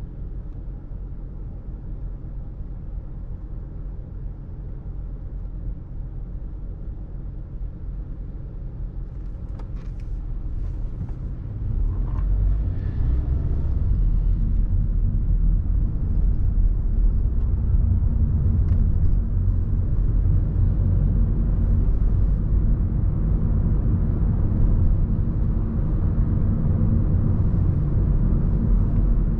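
Low, steady rumble of city road traffic, growing louder about twelve seconds in.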